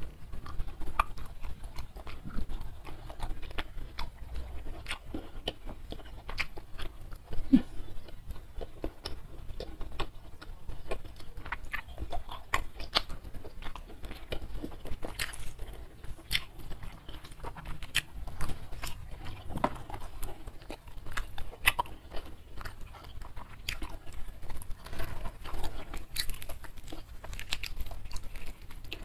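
Close-miked chewing and biting of a hand-eaten meal of jengkol in sambal, rice and crispy fried catfish, with many irregular short clicks and crunches.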